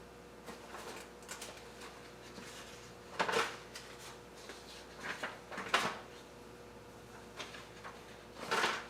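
Pages of a paper service manual being flipped: short rustles, with three louder page turns at about three, five and a half and eight and a half seconds in.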